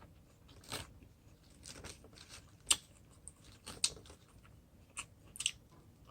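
A person chewing crunchy food close to the microphone: a string of irregular crunches, the sharpest nearly three seconds in.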